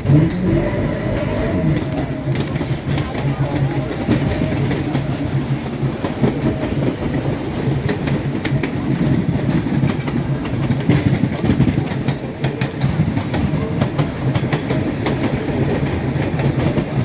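Subway train running on the rails: a steady rumble with a low hum, and wheels clicking over rail joints.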